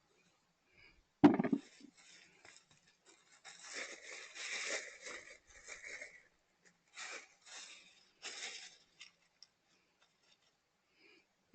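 A single sharp knock about a second in, followed by several bursts of dry rustling and scraping.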